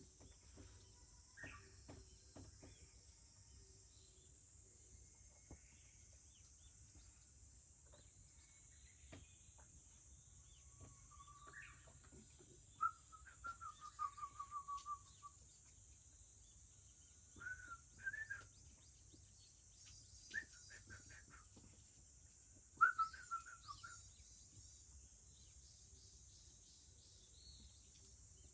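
Japanese bush warbler singing a few short whistled phrases, one of them a quick run of falling notes, over a steady high drone of insects and faint crackles of a wood fire.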